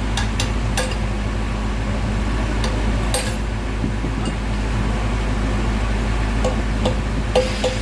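A steady low electric-motor hum, with scattered light metallic clinks, a few about a second in and a quicker run of them near the end.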